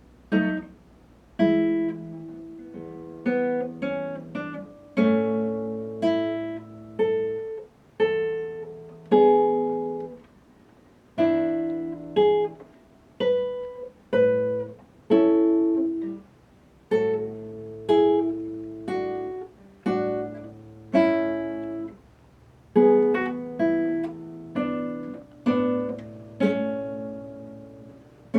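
Solo acoustic guitar playing a slow tune: chords and single notes are struck about once a second and each is left to ring and fade, starting about half a second in.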